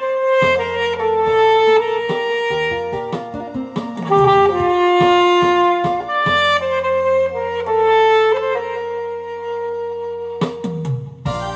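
Alto saxophone playing a slow, legato melody of long held notes over a backing track with bass and keyboard. The saxophone phrase ends about ten seconds in and the backing track carries on alone.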